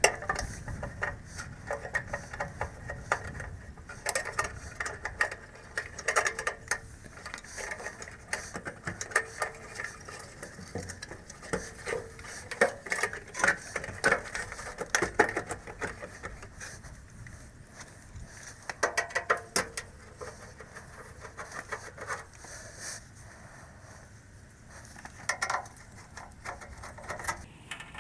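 Irregular light metallic clicking and clattering of hand tools and small metal parts being handled, with frequent sharp ticks and short rattles, busiest about four to sixteen seconds in and again near nineteen seconds.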